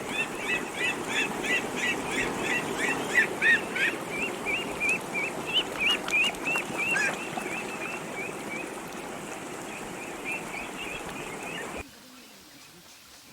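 Many small birds chirping rapidly together, dense at first and then thinning out, over a steady background noise. It all cuts off abruptly near the end.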